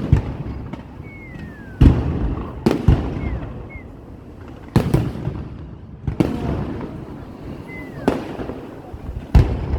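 Fireworks display: about six sharp bangs of aerial shells bursting, one to two seconds apart, each followed by a short rumbling echo, with a few faint falling whistles in between.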